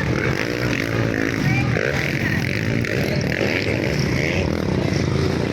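Motocross motorcycles' engines running and revving up and down in pitch on the race track.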